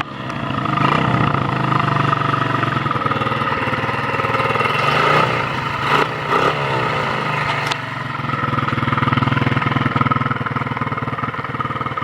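100cc Chinese pit bike's small four-stroke single running at idle after a cold kick start without choke, its speed rising and falling briefly around the middle. It doesn't sound right, which the owner puts down to a dirty carburetor that needs cleaning.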